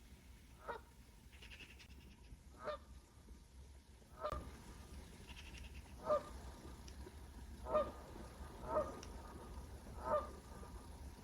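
A large bird, likely a waterbird, giving short calls again and again, about seven in all, each a second or two after the last.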